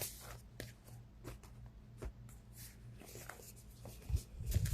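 Tarot cards being shuffled and handled: scattered soft card flicks and rustles over a low steady hum, with a few heavier thumps near the end.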